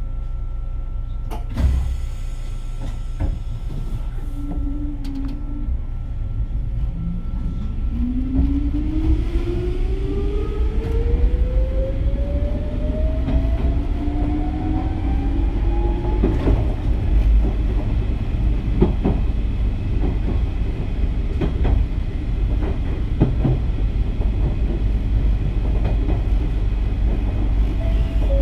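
Nankai 22000-series electric train pulling away. The motor and gear whine rises steadily in pitch over about ten seconds as it accelerates, then the train runs on with a steady rumble and clicks from the rail joints.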